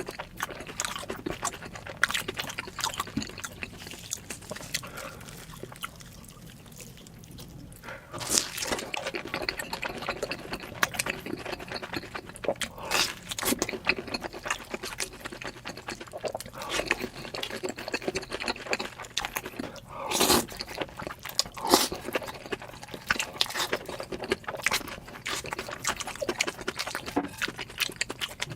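Close-miked mukbang eating sounds played at double speed: rapid wet chewing, lip smacks and slurps of cheesy food. They ease off for a few seconds about a quarter of the way through, then pick up again.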